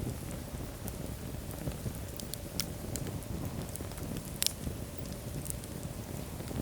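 Wood fire burning in a fireplace: a steady low rumble of flames with scattered crackles and pops, one louder pop about four and a half seconds in.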